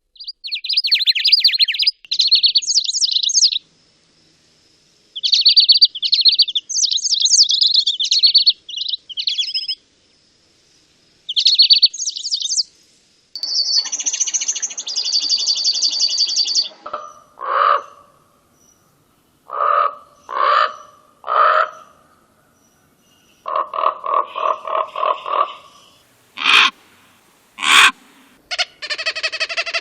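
Calls and songs of several different birds, one after another: bursts of rapid high chirping, then a buzzy nasal call, then short separate lower calls, a quick rattling series, two sharp clicks, and a drawn-out call near the end.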